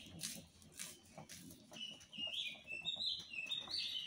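Birds singing, a run of chirping notes that step up and down in pitch, with scattered light clicks and knocks.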